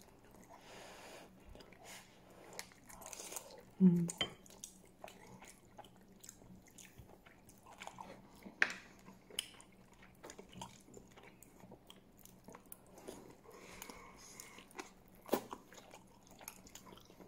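A person chewing and biting into pieces of saucy stewed chicken close to the microphone, with small wet mouth sounds and occasional clicks of chopsticks and a spoon. A short vocal sound comes about four seconds in.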